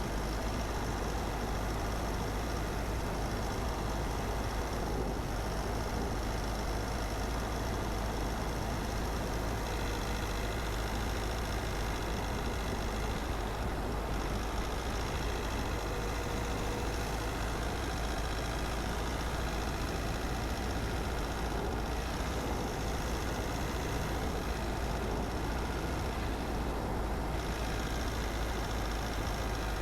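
Steady road noise of a car driving: constant tyre and engine noise with a strong low rumble, unchanging throughout.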